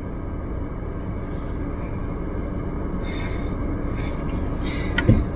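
Steady low rumble of a car idling, heard from inside the cabin, with a short knock near the end.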